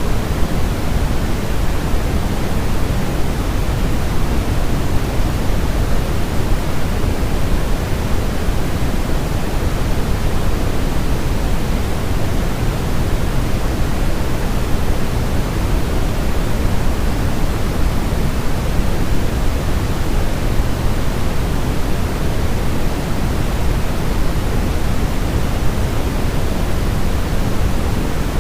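Steady white noise for baby sleep, an even, unbroken hiss weighted toward the low end so it sounds deep and soft rather than bright, with no change in level.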